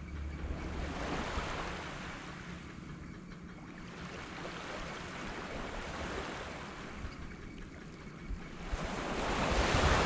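Small sea waves breaking and washing up the beach: a light wash about a second in, then a larger wave building to break near the end. A low hum fades out in the first second.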